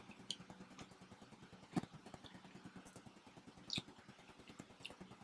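Quiet eating sounds of people chewing pizza: a few short clicks and smacks, one every second or so, over a faint steady hum.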